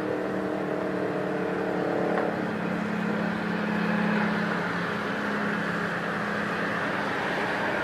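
Steady engine noise with a hum whose pitch pattern changes about two seconds in.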